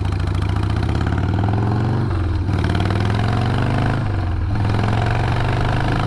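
Harley-Davidson Sportster 1200's air-cooled V-twin engine pulling under way, its pitch rising, then dropping sharply about two seconds in and again about four seconds in, as the rider changes up through the gears.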